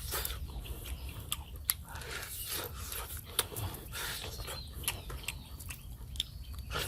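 Close-up chewing and biting into cooked dove meat, with irregular sharp crunchy clicks.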